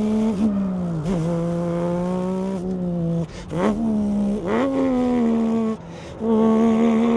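A man imitating a stock classic Porsche engine with his mouth: a held, buzzing engine note that climbs slowly and drops sharply like gear changes. It breaks off briefly about three seconds in and again near six seconds.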